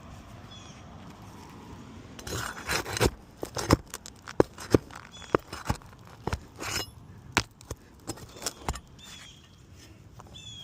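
Metal tool scraping and knocking against asphalt 3-tab shingles in sharp, irregular clicks as a damaged shingle is pried loose and its roofing nails worked out. The nails are pulling through the shingles, their heads broken off.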